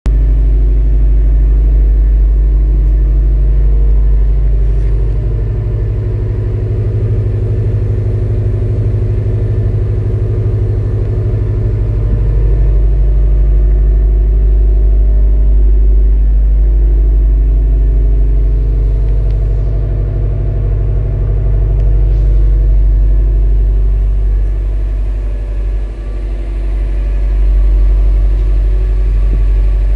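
Stock 2016 Subaru WRX STI's EJ257 turbocharged flat-four boxer engine idling while warming up after a cold start, a steady low rumble from the exhaust.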